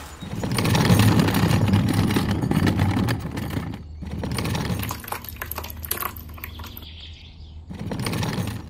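A low rumble for about three seconds, then wet concrete dropping in lumps and slopping into a small foundation trench, in uneven bursts with short quiet gaps.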